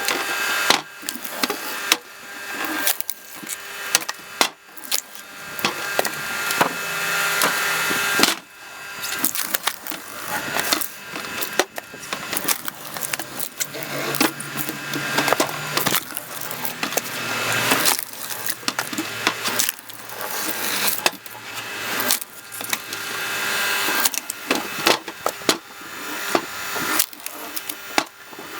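Firewood logs cracking and splintering as a screw-cone log splitter bores into them and forces them apart: dense crackling and sharp snaps that build up and break off again every few seconds.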